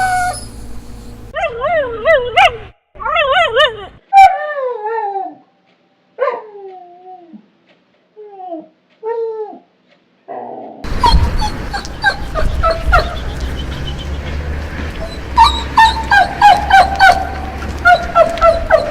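Dogs whining and crying: high, wavering whines and falling whimpers in several short separate clips with silent gaps between them, then from about eleven seconds in a noisier recording of a dog giving rapid short yips and whimpers.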